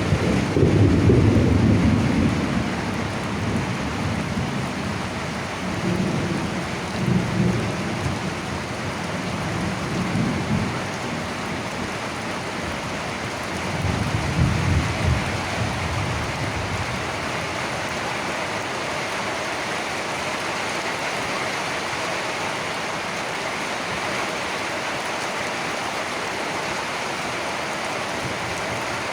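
Steady rain with thunder rumbling: a loud rumble at the start, then smaller rumbles about six, ten and fourteen seconds in. After that only the steady rain goes on.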